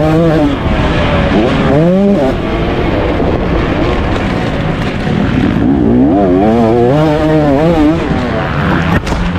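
Motocross bike engines revving hard, their pitch climbing and dropping again and again with the throttle.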